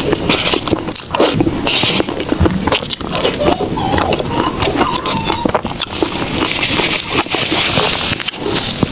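Close-miked eating sounds: chewing of soft desserts with many small wet clicks and crackles.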